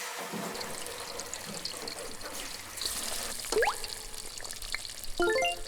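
Steady sizzling hiss of oil heating in a pan for frying chunjang. A short rising whistle sounds about three and a half seconds in, and a quick run of rising beeps comes near the end.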